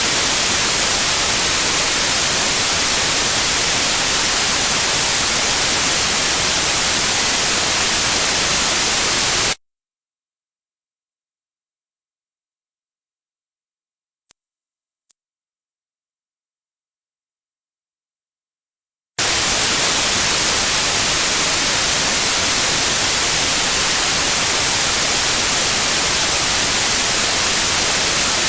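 Synthetic white noise with a steady, high-pitched sine tone at about 9645 Hz mixed in, a tinnitus sound-therapy signal. About a third of the way in the noise cuts out for roughly ten seconds, leaving the pure tone alone, then the noise comes back.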